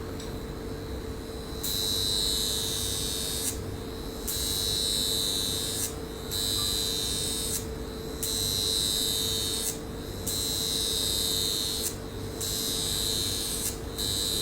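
High-frequency facial wand buzzing as its glass electrode works over the skin. The buzz comes in stretches of about a second and a half with short breaks, over a steady faint hum from the machine.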